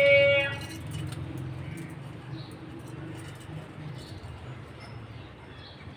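Budgerigars calling: one loud, clear call in the first half second, then a few faint short chirps over a steady low hum.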